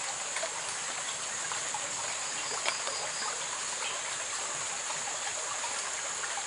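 Steady rush of flowing river water, with a steady high hiss above it and a few faint clicks, one about two and a half seconds in.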